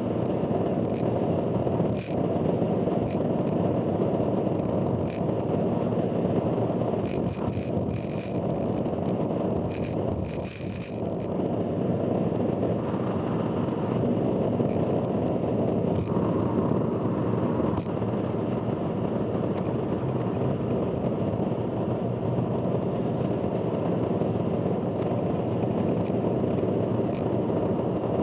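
In-car recording of a car driving on an expressway: a loud, dense rumble of road and wind noise with scattered sharp clicks, a cluster of them about a quarter of the way in. This is the loud abnormal noise the recording is known for.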